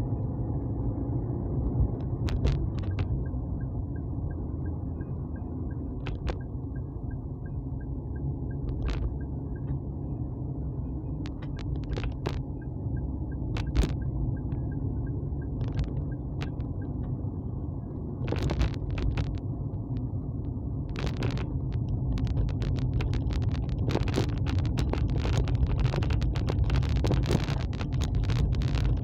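Steady low rumble of a vehicle on the move, wind and road noise on the microphone, with scattered sharp clicks and crackles that come thick and fast from about two-thirds of the way in.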